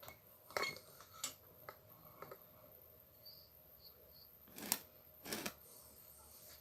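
Scattered small clicks and taps of small angle-grinder parts being handled while a carbon brush and its spring are fitted into the brush holder, with a few sharper clicks, the loudest near the end.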